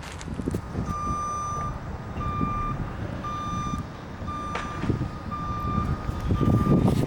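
Truck's reversing backup alarm beeping about once a second, each beep a single high tone, starting about a second in, over a low engine rumble that grows louder near the end.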